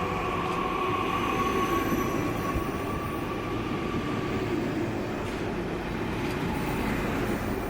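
A train moving along the platform track with a steady rumble and a faint whine that fades out about halfway through.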